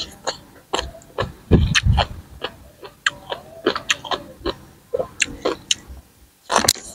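Close-miked eating of green papaya salad: wet chewing, crunching and lip-smacking in quick, irregular clicks, with a louder, deeper stretch about one and a half to two seconds in.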